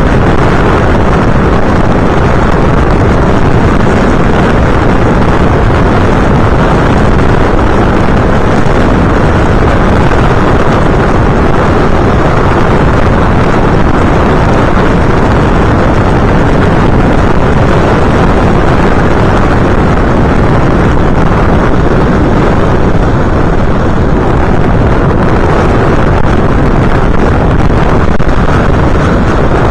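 Loud, steady rush of wind and motor noise from an FPV model aircraft in flight, picked up by its onboard camera microphone.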